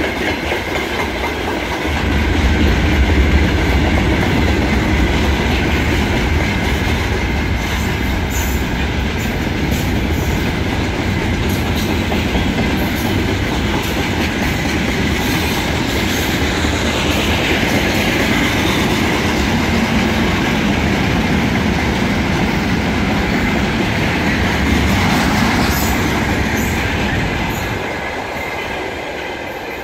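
Freight train of open gondola cars and timber flatcars rolling past at close range: a steady rumble of wheels on rail with a rhythmic clatter over rail joints, fading near the end as the last cars go by.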